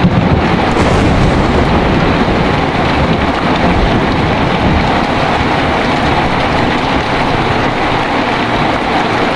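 Heavy rain falling steadily, with a low rumble of thunder that fades over the first second or two.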